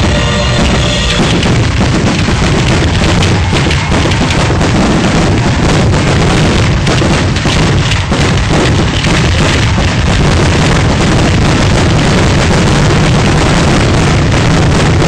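Aerial fireworks going off in a loud, continuous rapid barrage of bursts and bangs. A song's music fades under it about a second in.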